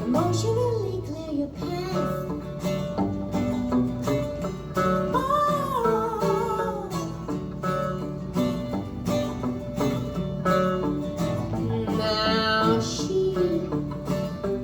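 Live song performance: plucked acoustic string accompaniment with a singing voice carrying the melody in phrases, one about a third of the way in and another near the end.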